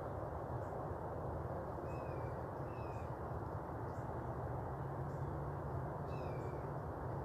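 A bird gives three short, falling call notes, two close together about two seconds in and one more near six seconds, over a steady outdoor background hiss.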